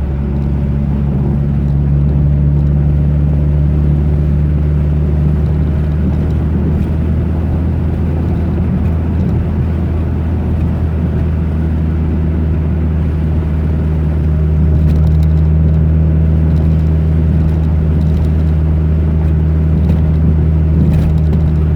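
Car engine and road noise droning steadily while driving, heard from inside the car, with a few short rattles and clicks near the end.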